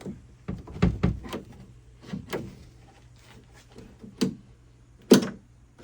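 Jeep TJ Wrangler door latch mechanism being worked by hand: a series of separate metallic clicks and clunks as the latch rod moves, with the latch moving but not releasing.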